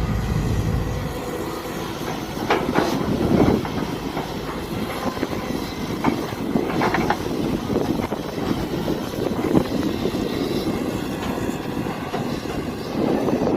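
Mini excavator at work: a steady machine noise with a few sharp clanks, the loudest about three seconds in and near seven seconds.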